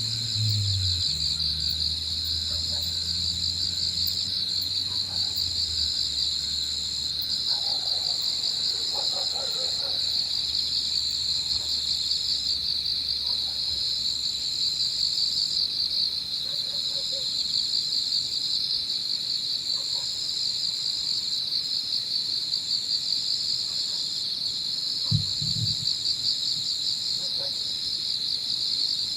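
Evening insect chorus of crickets: a dense, steady trill with a higher, shrill song above it that breaks off briefly every second or two. A faint low drone fades out in the first few seconds.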